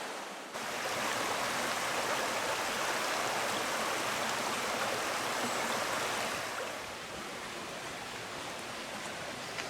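Steady rush of a stream and waterfall, rising abruptly about half a second in and easing somewhat later on.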